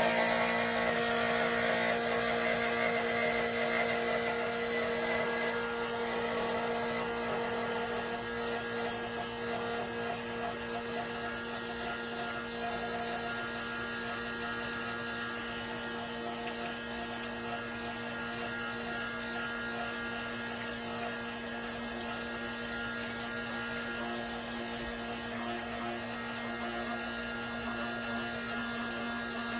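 La Marzocco Linea Micra espresso machine giving off a steady hum with a constant tone, a little louder in the first few seconds. The owner finds the sound weird, and its cause is not known.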